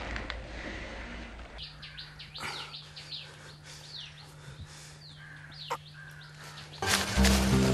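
Small birds chirping: a string of short, quick chirps, many sweeping downward, over a faint steady low hum. Background music fades out before the chirping and comes back in loudly near the end.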